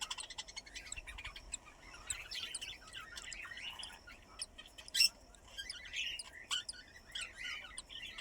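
Birds chirping: many short, high calls overlapping throughout, with one louder sharp call about five seconds in.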